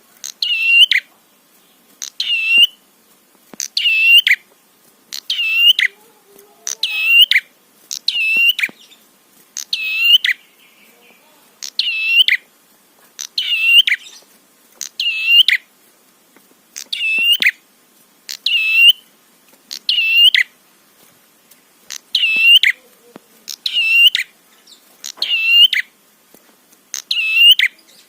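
Prenjak call, one sharp hooked phrase repeated about every one and a half to two seconds. It is played as a lure recording (pancingan) to make other prenjak call.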